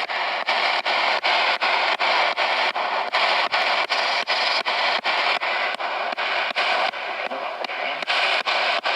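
Spirit box radio sweeping through stations: a steady hiss of static, broken by short regular gaps about four times a second as it steps from station to station.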